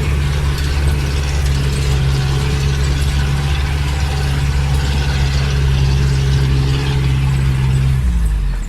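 Engine running with a steady low hum and a noisy wash above it; about eight seconds in, its pitch drops as it slows.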